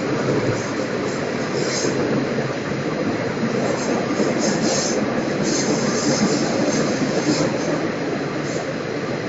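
Passenger train running through a tunnel, heard from inside the carriage: a steady rumble of wheels on the rails, with high-pitched wheel squeal coming and going several times.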